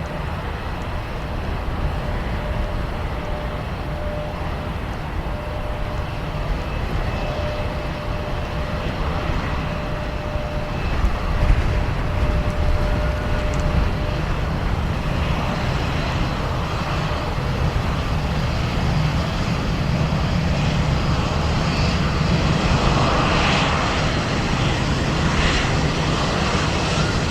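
Airliner engines running, a steady rumble and hiss that slowly grows louder, with a thin steady whine over the first half.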